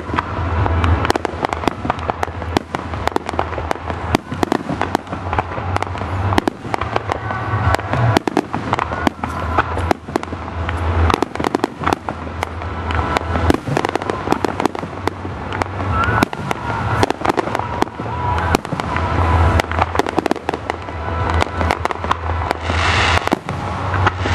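Aerial firework shells bursting in rapid succession: many sharp bangs, often less than a second apart, over a low rumble, with a brighter rush of hissing crackle near the end.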